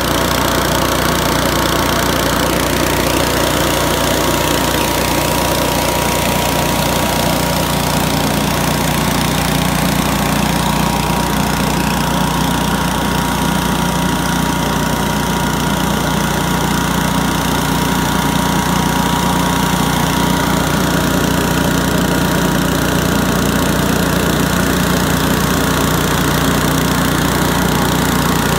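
Billy Goat F601S walk-behind leaf blower running steadily, its 170 cc, 6 hp Robin four-stroke engine and the impeller's rush of air together, with a steady high whine.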